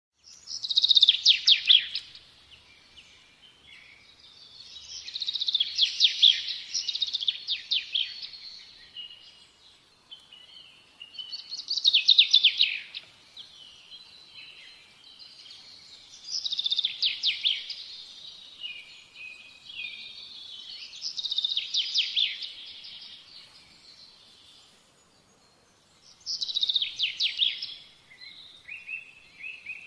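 Bird song: short phrases of rapid, high repeated notes that fall in pitch, sung about every five seconds, six times.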